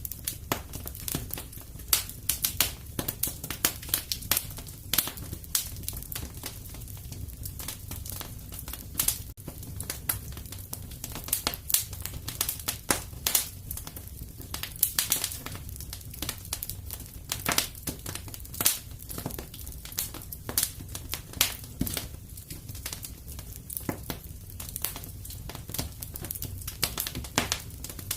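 Wood fire in a fireplace crackling, with irregular sharp pops of varying loudness over a steady low rumble.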